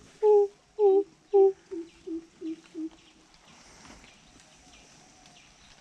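A crow cawing in a quick series of about seven calls, roughly two a second, the last few quieter and fading out by about three seconds in. A faint high, steady insect drone and light chirping run behind.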